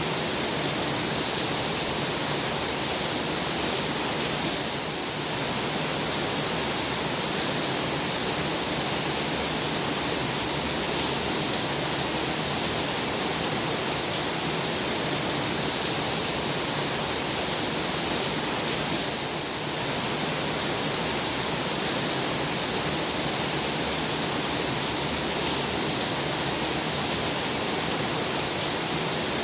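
Heavy rain falling steadily: a dense, even hiss that dips briefly twice.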